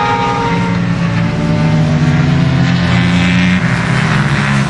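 A motor vehicle's engine running steadily, its pitch shifting slightly about three and a half seconds in.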